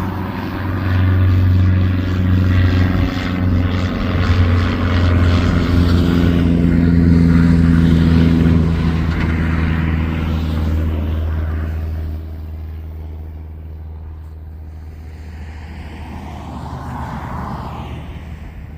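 Aircraft engine drone, low and steady with a strong low hum, dropping off sharply about twelve seconds in to a quieter, fading drone.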